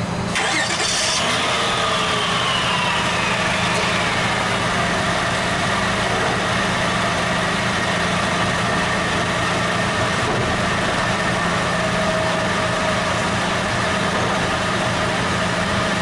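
A 2000 Honda Odyssey's 3.5 L V6 starts about half a second in. Its speed settles down over the first few seconds, then it idles steadily through the freshly welded muffler and catalytic converter exhaust, which is now a whole lot quieter.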